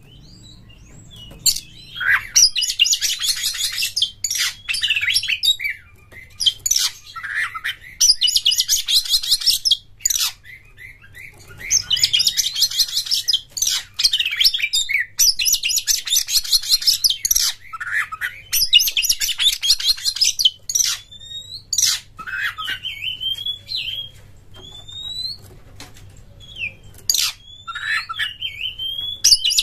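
Oriental magpie-robin singing in a fast, full song: rapid high chattering phrases about two seconds long, each followed by a pause, alternating with shorter whistled notes and sliding calls.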